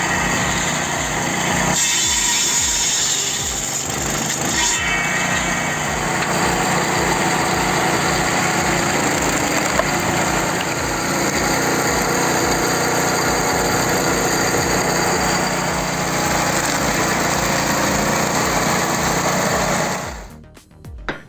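A small engine-driven firewood splitter running steadily, with background music underneath. It cuts off about twenty seconds in.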